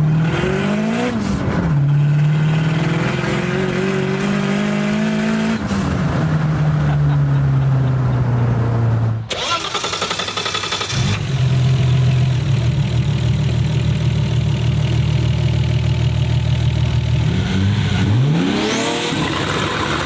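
Car engine heard from inside the cabin, climbing and falling in pitch as the car accelerates and eases off. After a cut, a Nissan RB26 straight-six idles with an even pulsing beat, then is revved sharply near the end.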